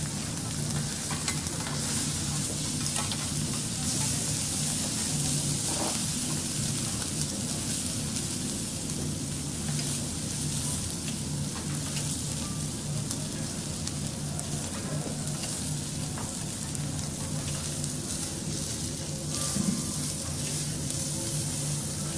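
Food sizzling steadily on a teppanyaki griddle, with occasional light clicks.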